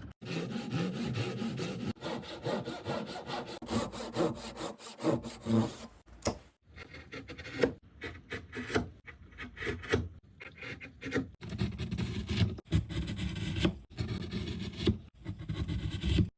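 Hand saw cutting wood for a half-lap joint: a run of rhythmic, rasping back-and-forth strokes that breaks off and restarts abruptly several times.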